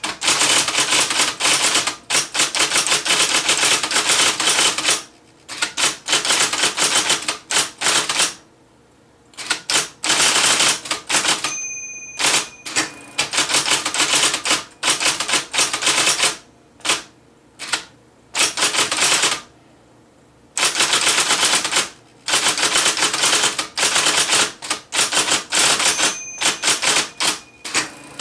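IBM Selectric III electric typewriter typing in fast runs of sharp strikes, broken by a few short pauses.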